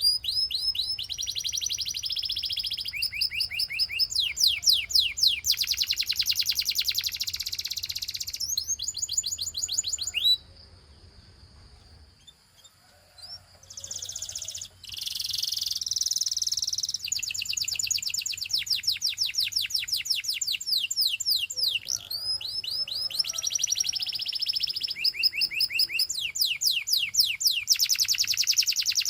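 Canary singing: phrase after phrase of fast trills made of rapidly repeated chirps, pausing briefly about ten seconds in before starting again.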